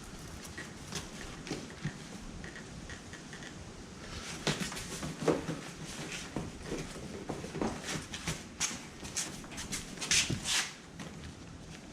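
Scattered light clicks, knocks and rustles of parts and tools being handled, sparse at first and busier from about four seconds in.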